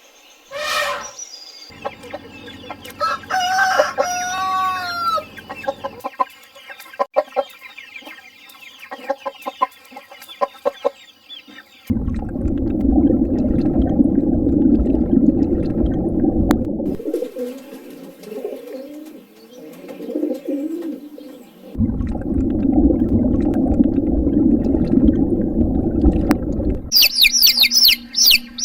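A run of chicken sounds: a rooster crowing and hens clucking in a series of separate clips, with high, rapid peeping near the end.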